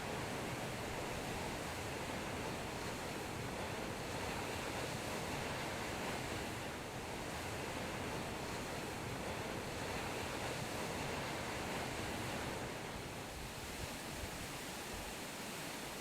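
Steady rushing noise of Taughannock Falls, water pouring down among the winter ice. The deep rumble thins near the end.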